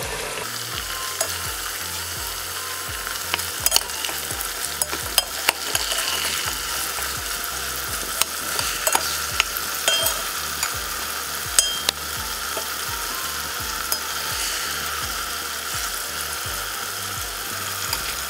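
Sliced onions and beef chunks frying in oil in a pot, a steady sizzle. A metal slotted spoon stirring them makes scattered sharp clicks and scrapes against the pot.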